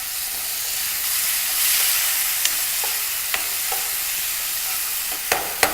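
Chicken pieces with chopped tomato sizzling in hot oil in a frying pan: a steady hiss, with a spatula clicking against the pan a few times as it is stirred, most often near the end.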